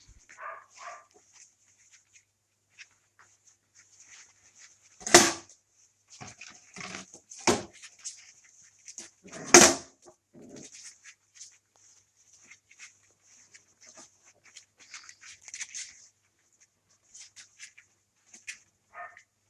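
Month-old puppies eating meat, with small wet chewing and smacking clicks throughout and three short, loud puppy yaps about five, seven and a half and nine and a half seconds in.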